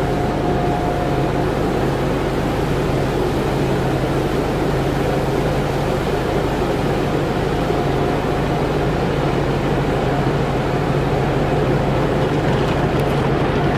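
Steady road and engine noise inside the cabin of a Subaru WRX being driven at an even pace, with a constant low hum under the tyre rumble.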